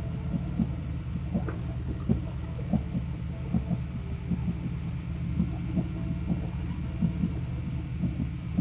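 Harley-Davidson Street Rod 750's V-twin engine running steadily while riding downhill: a low, even drone with small irregular pulses.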